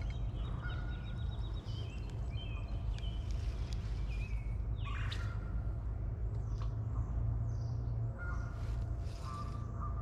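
Wild birds calling and chirping, short gliding calls scattered throughout with a louder sweeping call about halfway, over a steady low rumble.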